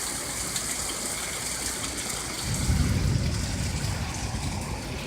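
Heavy rain pouring down in a steady hiss, with a low rumble swelling about two and a half seconds in and dying away.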